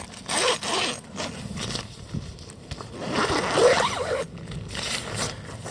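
Tent door zipper being pulled open in a few rasping pulls, two of them long.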